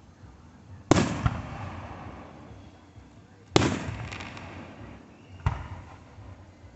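Fireworks shells bursting overhead: three separate booms, about a second in, past the middle and again near the end, each trailing off in a fading rumble; the middle one is the loudest.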